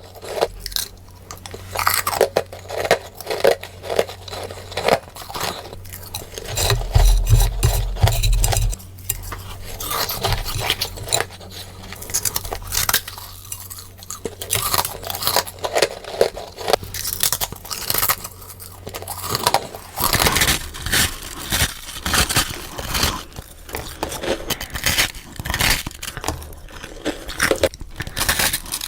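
Close-up crunching bites of freezer frost, dense and irregular, played sped up. A low hum runs beneath the crunching and stops about twenty seconds in.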